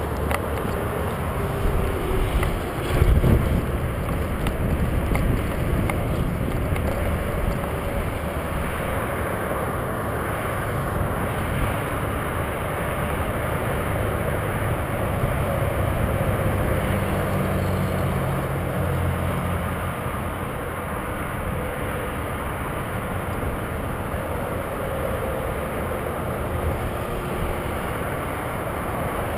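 Kawasaki Ninja 250 on the move: steady wind and road rush over its engine running, with a brief loud thump about three seconds in.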